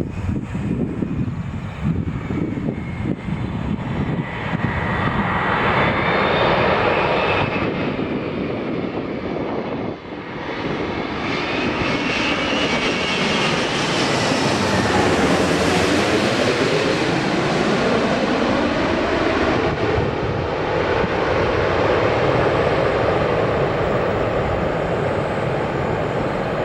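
Airbus A380-800 jet airliner with its four GP7200 engines coming in to land and passing close by: a loud steady jet roar that builds, peaks about halfway through with a sweeping fall and rise in tone as it goes past, and stays strong to the end.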